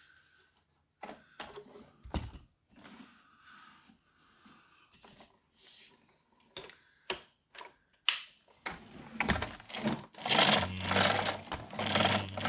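Plastic stick-vacuum parts being handled and fitted together: scattered clicks and knocks, then a few seconds of louder rattling and rustling in the second half.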